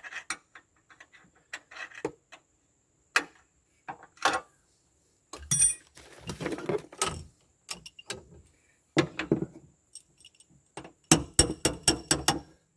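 Metal hand tools and a metal bracket clinking, knocking and scraping as the bracket is slid into place and bolted up in a cramped cab, with a quick run of regular clicks near the end.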